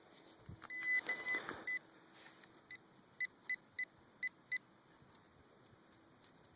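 Handheld metal-detecting pinpointer beeping while it is probed around a dug hole to locate a target. A few quick beeps with rustling come about a second in, then six short separate beeps follow over the next two seconds.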